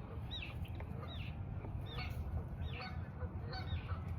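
A flock of birds calling continuously: many short, arching, honk-like calls in quick succession over a steady low rumble.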